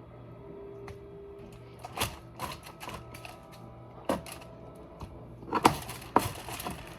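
Kitchen clatter: a series of sharp, irregular knocks and taps of utensils and cookware, loudest near the end.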